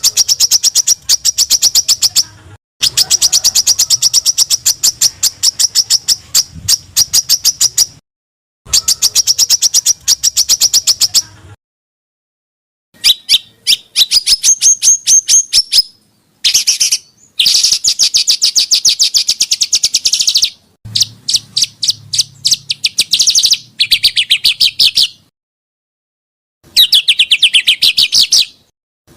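Small songbird calling in fast, high, sharp repeated notes, several a second, in bursts of a few seconds with a few slurred, falling phrases near the end. The bursts are broken by abrupt dead-silent gaps: edited 'masteran' tutor material of rapid-fire 'tembakan' calls for training cage songbirds.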